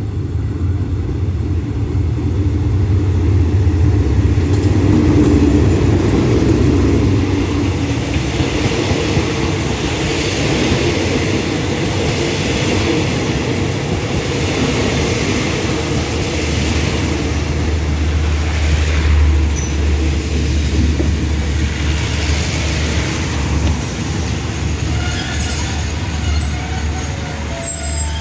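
GEA-class GE diesel-electric locomotive running with a deep engine drone as it pulls into the station, loudest as it passes a few seconds in. Then the passenger coaches roll past with wheel noise, and faint brake squeals near the end as the train slows to a stop.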